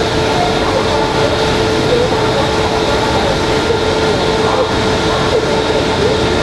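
WAP-7 electric locomotive standing with its equipment running, giving a steady hum with a constant whine over it.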